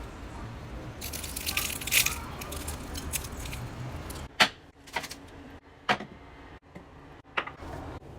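Kitchen utensils clinking against dishes, with four sharp separate taps in the second half.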